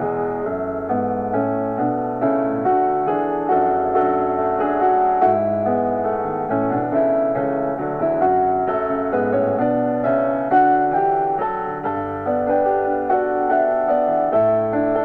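Piano music: a steady stream of struck notes in a flowing melody with chords beneath.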